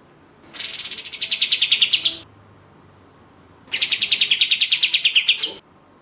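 Kapas tembak (white-shouldered triller) singing two fast trills, each a rapid run of about a dozen notes a second lasting about a second and a half and falling slightly in pitch toward the end.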